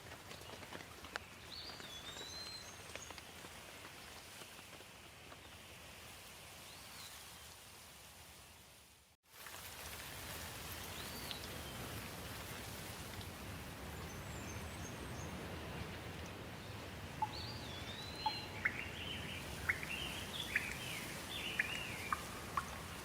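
Steady rain with birds chirping now and then. The sound dips out to silence for a moment about nine seconds in and then resumes. Near the end comes a quick run of sharp chirps.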